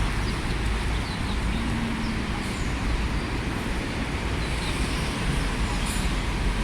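Steady urban background rumble, like city traffic, with a few faint, short, high bird chirps.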